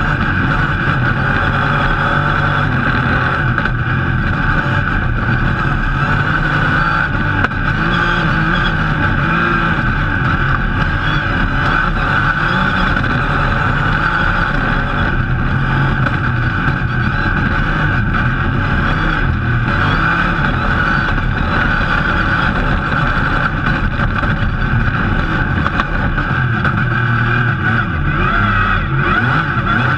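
Rally car engine heard from inside the cockpit, running hard at stage speed. The revs rise and fall throughout.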